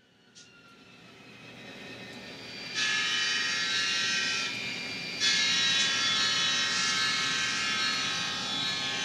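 ESU LokSound Micro sound decoder in an N scale F40PH model playing a diesel locomotive sound: the engine sound fades up over the first few seconds, then the multi-chime air horn sounds once briefly, about three seconds in, and again in a long blast from about five seconds in, with the engine sound running under it.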